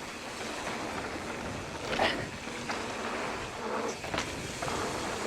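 Mountain bike rolling down a dirt trail: a steady rush of tyre and wind noise, with a few short knocks and rattles over bumps, around two seconds in and again around four.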